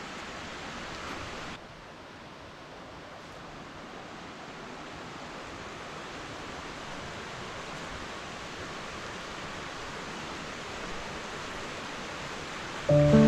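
Steady, even rush of a waterfall. It drops slightly at a cut about a second and a half in, then slowly builds again. Music begins right at the end.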